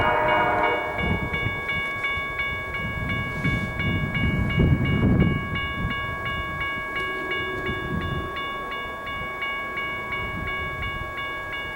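Railroad crossing warning bell ringing at about three strikes a second. Underneath it, a pickup truck drives past the lowered gates, its rumble swelling to the loudest point about five seconds in.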